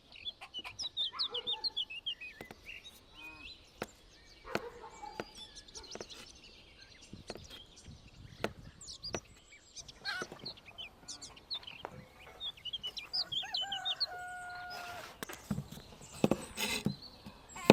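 Chickens clucking, with one longer held call about fourteen seconds in. Small birds chirp throughout, and sharp clicks and knocks come at scattered moments.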